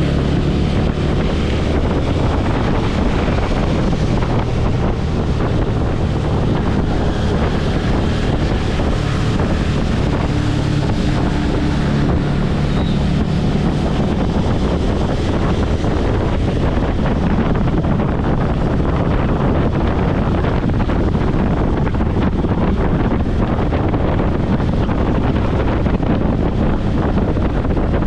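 Motorcycle riding at speed: wind buffets the rider's microphone in a steady roar, with the bike's engine drone underneath, its pitch shifting slightly now and then.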